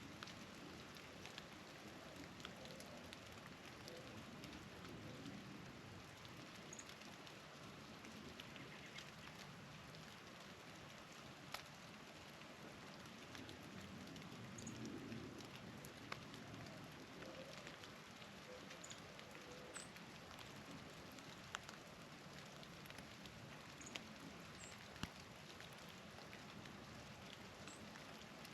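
Faint steady patter of falling wet snow and drips, with a few sharper ticks scattered through it. A few brief, faint, high chip notes from small birds come through now and then.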